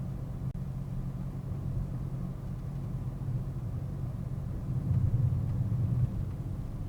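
Steady low rumble of a car's engine and road noise while driving, heard from inside the car, swelling a little about five seconds in. A faint click just after the start.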